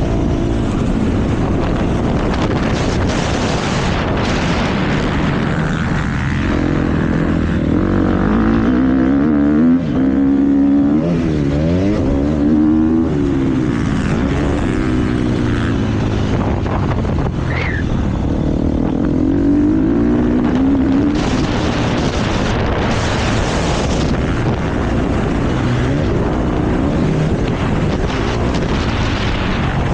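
KTM motocross bike engine revving hard, its pitch rising and falling again and again as the throttle opens and closes around the track. Wind buffets the microphone throughout.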